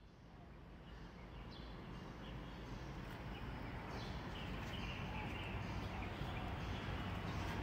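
Birds chirping in short, scattered calls over a low steady background hum, fading in gradually from silence.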